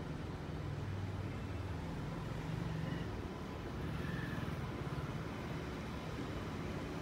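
Low, steady rumble of an express train hauled by a WAP-7 electric locomotive, approaching from far down the line and growing slightly louder.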